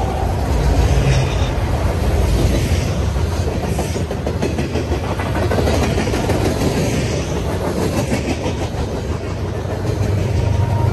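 Freight train rolling past close by, its steel wheels clicking over the rail joints in a dense run above a steady rumble. Near the end a low diesel engine hum grows as a mid-train locomotive draws near.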